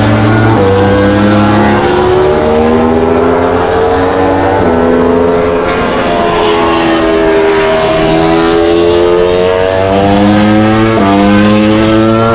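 Racing motorcycle engines running hard. The pitch climbs steadily, then drops back sharply about three times as the riders shift up through the gears.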